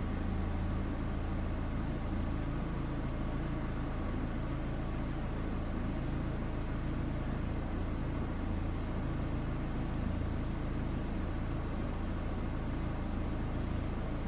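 Peugeot car engine idling steadily, heard from inside the cabin, with the AL4 automatic gearbox engaged in Drive and the car held stationary while the cold gearbox oil warms up.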